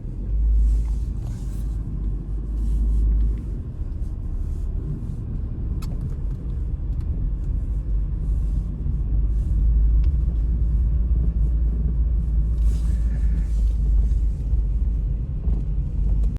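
Strong wind rumbling and buffeting against the microphone, a deep unsteady roar with a few faint ticks above it.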